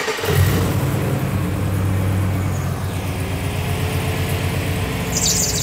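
GM LS V8 catching from cranking and settling into a steady idle. About five seconds in, a high-pitched squeak from the accessory belt and its tensioner joins the idle: a known belt and tensioner fault.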